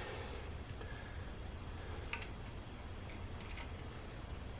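A few faint, scattered light clicks of screws and engine parts being handled, over a steady low hum.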